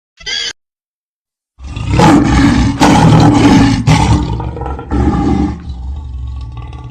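A large animal's loud, rough roar lasting about four seconds, then easing into a quieter low rumble.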